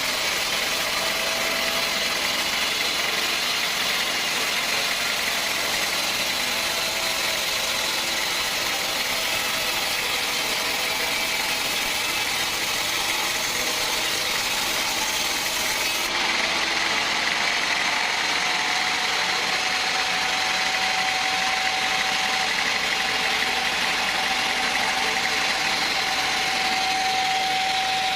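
Sawmill machinery running steadily, a continuous mechanical noise with a high whine. Partway through, the whine rises slightly in pitch and grows stronger.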